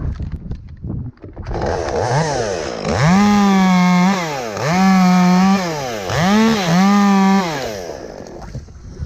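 Chainsaw revving up and running at full throttle in three long pulls, dropping back briefly between them, as it cuts through an elm limb. The engine winds down about a second before the end.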